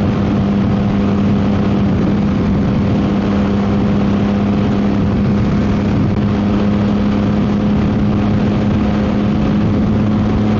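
Yamaha MT-09 SP's inline three-cylinder engine through a Dominator GP aftermarket exhaust, running at a steady engine speed while cruising, with wind noise on the microphone.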